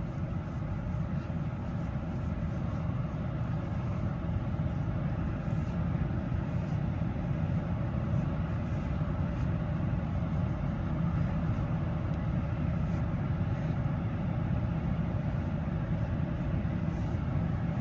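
Steady low vehicle rumble with a hiss above it, unchanging throughout.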